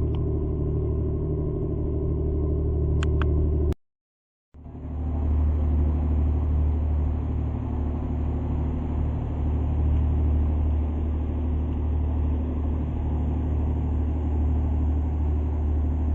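Tour boat's engine running steadily, a low drone with wash noise. It breaks off completely for under a second about four seconds in, then resumes.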